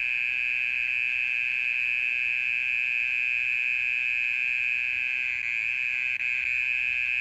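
Oriental mole cricket singing: a continuous, steady high-pitched trill that never breaks, the male's calling song.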